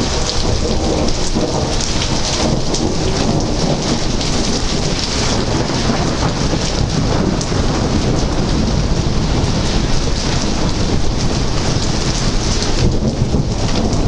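Thunderstorm: heavy rain pouring down steadily, with a low rumble of thunder underneath.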